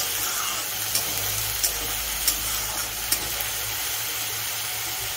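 Ground onion paste sizzling in hot mustard oil in a kadai over a high flame. A metal spatula stirs it and clinks sharply against the pan about five times in the first three seconds.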